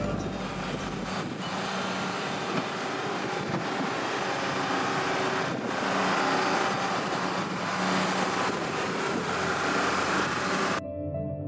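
Backhoe loader running, a steady rough machine noise with no clear pitch, which cuts off abruptly near the end as music comes in.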